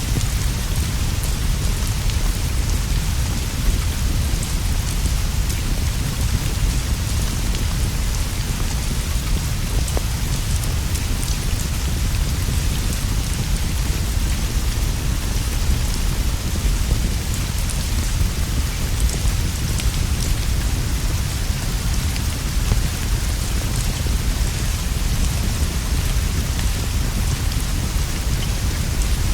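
Steady rainfall on leaves and a roof, an even hiss over a deep low rumble that does not let up, with faint scattered small ticks.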